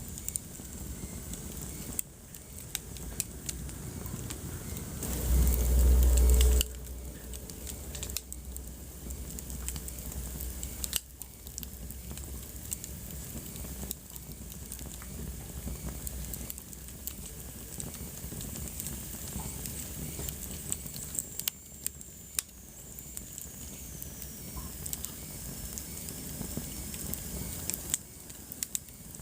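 Wood fire crackling in a fireplace: a soft steady hiss with scattered sharp pops and snaps. About five seconds in, a loud low rumble lasts for about a second and a half.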